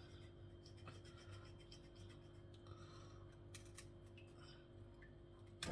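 Near silence with faint scraping and small clicks as raw chicken feet are cleaned by hand, and one sharper click near the end.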